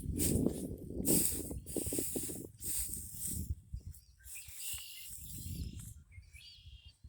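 Footsteps crunching over the ground, about one step a second. They stop about halfway through, and a small bird sings a few thin, wavering notes.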